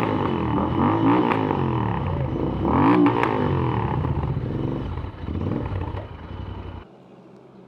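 Royal Enfield Interceptor 650 parallel-twin through AEW aftermarket exhausts, revving up and dropping back several times. The sound drops off suddenly to a much lower level near the end.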